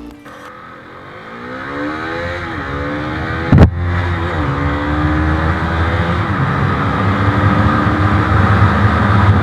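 Bajaj Pulsar NS 200's single-cylinder engine accelerating hard through the gears: the pitch climbs, drops at upshifts about two and a half and four and a half seconds in, then rises slowly while wind noise grows louder. A loud sudden thump about three and a half seconds in is the loudest moment.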